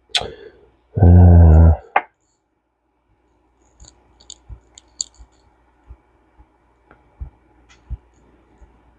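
Small metal parts of a vintage push-button fishing reel clicking and tapping as they are handled and fitted, with a short, loud, steady low hum about a second in.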